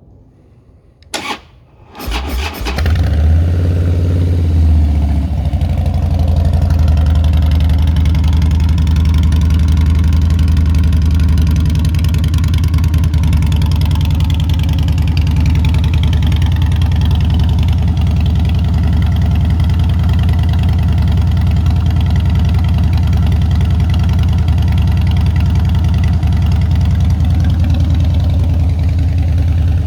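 Harley-Davidson Softail Slim's V-twin engine on a cold start: a short burst of cranking about a second in, the engine catching about two seconds in, then running at a steady idle.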